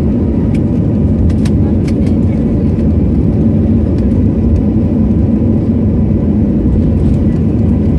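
Steady drone of an airliner in flight, heard from inside the cabin: an even, loud low rumble with a few faint ticks.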